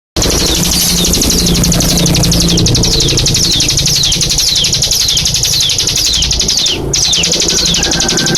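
Cigun songbird singing its rapid-fire 'nembak' song: a fast, unbroken high trill with a falling sweep repeated about every half second. The song breaks off for a moment near the end, and a low hum runs underneath.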